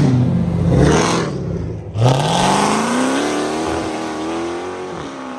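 Car engine blipping its revs twice, then about two seconds in a car accelerates hard away, its engine note rising steadily for about three seconds before fading.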